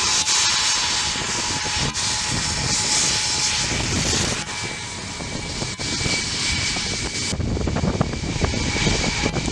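Jet engines of an Ilyushin Il-76, its four turbofans running loud with a steady whine over a strong hiss and low rumble; the sound shifts abruptly about halfway through and again near the end.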